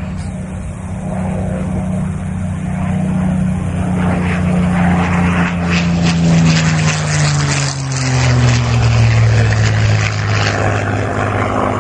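Supermarine Spitfire LF Mk IXe's Rolls-Royce Merlin V12 engine running at speed in a flypast. The engine grows louder, and its note drops steadily in pitch as the aircraft passes.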